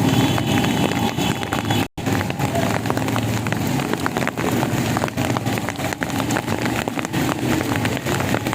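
Heavy rain pouring down with a dense patter of drop impacts, over the hum of street traffic. The sound cuts out for an instant about two seconds in.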